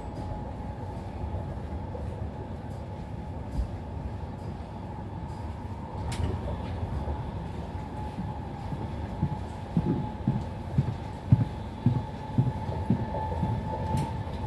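Intercity train running at speed, heard inside the passenger coach: a steady rumble of wheels on rails with a steady high whine. A sharp click comes about six seconds in, and from about ten seconds in a run of low knocks, about two a second.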